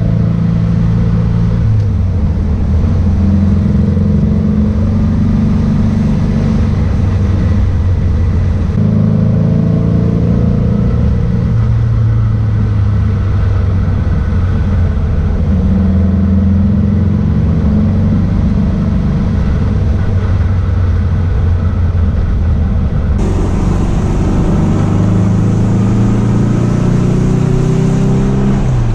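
Porsche 912's air-cooled flat-four engine running on the road, its note rising and then dropping several times as the car pulls through the gears.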